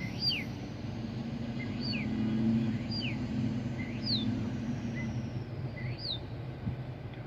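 A car idling with a steady low hum, while a bird gives short, downward-sliding chirps about once a second.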